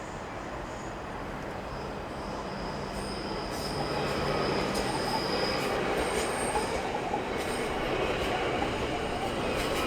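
Auckland AM class electric multiple unit running past on the rails, growing louder about four seconds in, with a thin high squeal over the rumble of the wheels.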